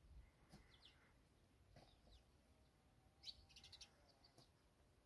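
Near silence with faint bird chirps: a couple of short high chirps about half a second in, and a quick run of about half a dozen a little past the middle.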